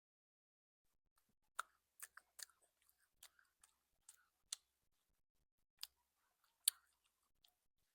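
Close-miked chewing and biting of food: a dozen or so sharp, irregular crunches and mouth clicks, starting about one and a half seconds in.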